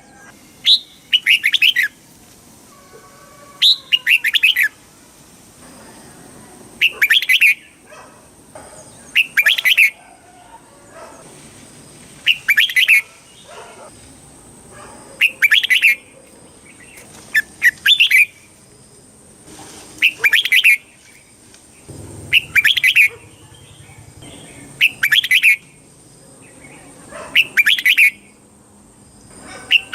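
Red-whiskered bulbul singing short, bright, warbled phrases, one about every two and a half seconds, about a dozen in all. A faint steady high whine runs underneath.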